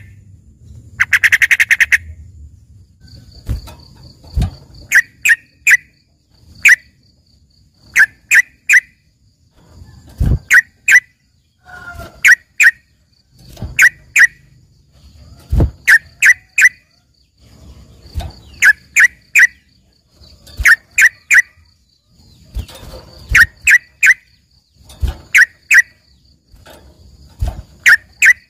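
Trucukan (yellow-vented bulbul) calling in sharp, loud clusters of two or three notes, repeated every second or two, with a faint steady high-pitched pulsing tone behind.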